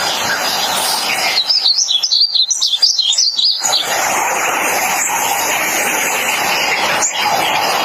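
Painted bunting singing one rapid, warbling phrase of high notes, starting about a second and a half in and lasting about two seconds, over a steady background hiss.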